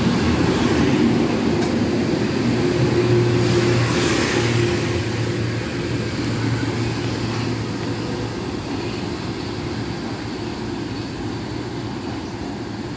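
Metro-North M3 electric multiple-unit train passing slowly at close range, a steady low hum over rolling noise. The sound fades after the last car goes by, leaving a fainter rumble.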